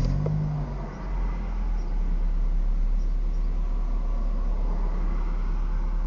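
2004 Acura RSX's K-series four-cylinder engine starting up, then settling into a steady warm idle after a brief dip about a second in.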